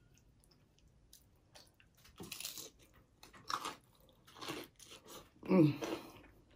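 A person biting and chewing crunchy taco salad on broken taco-shell pieces: quiet at first, then a handful of short crunching bites spread through the second half. A brief vocal sound comes with the loudest bite shortly before the end.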